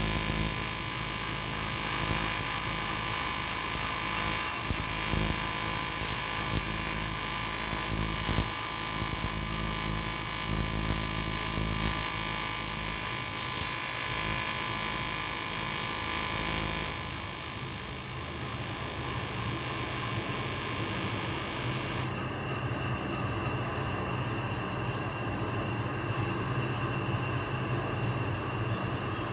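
TIG welding arc on aluminium, an AC arc, buzzing steadily with a high hiss. It cuts off suddenly about three quarters of the way through, and a lower steady hum carries on.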